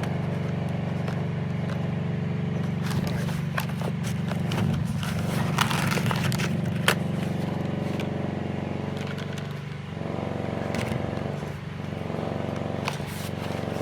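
A steady motor hum, like an engine running, with scattered sharp clicks and short scrapes over it.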